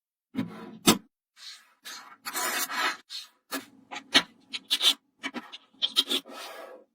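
Small magnetic balls being handled: a few sharp clicks as they snap together, between longer rasping swishes as the balls rub and roll against one another.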